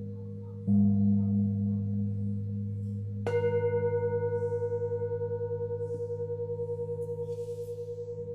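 Singing bowls struck and left to ring: a deep one about a second in, then a higher bowl about three seconds in whose tone wavers in steady pulses as it slowly fades, over the lingering hum of earlier strikes.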